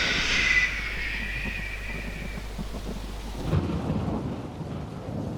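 Low rumbling noise slowly dying away, with a high whine fading out over the first two seconds.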